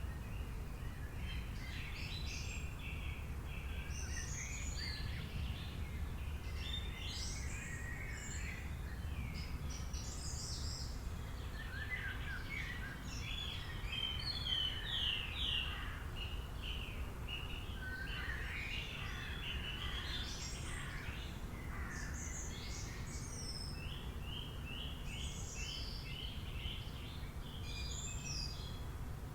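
Several songbirds chirping and trilling over one another, with short rapid runs of high notes, over a steady low background rumble.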